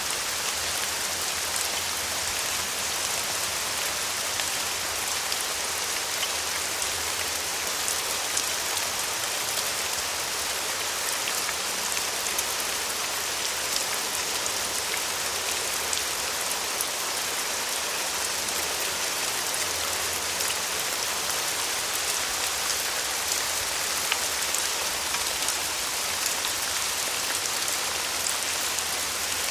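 Steady rain falling, a dense even patter of drops with many sharper individual drop hits scattered through it.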